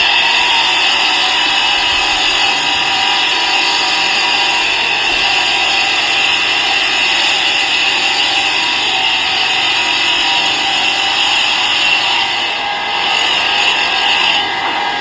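A workshop machine tool running with a steady high whine, which dips briefly and then fades near the end.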